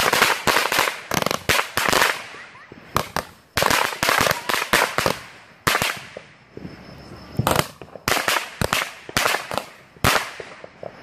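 Consumer fireworks being set off from the ground: an irregular run of sharp bangs and pops, many in quick clusters, each trailing off briefly.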